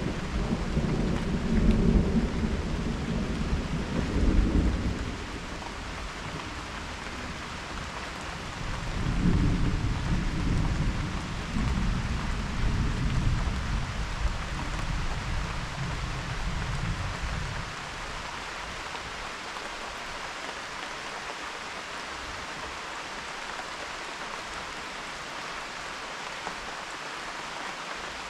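Thunder rumbling over steady rain. One long rumble fades about five seconds in. A second rolls in at around nine seconds and dies away by about eighteen seconds, leaving only the even hiss of rain.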